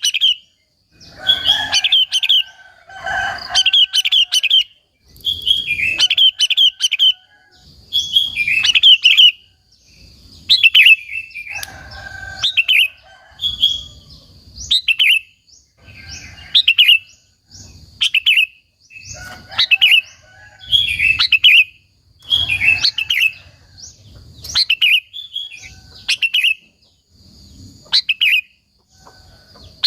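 Sooty-headed bulbul singing vigorously: short, bubbly, warbling phrases repeated every second or two with brief pauses between them.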